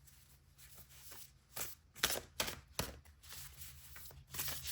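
A tarot deck being shuffled by hand: a string of quick papery swishes and slaps, louder and closer together from about a second and a half in.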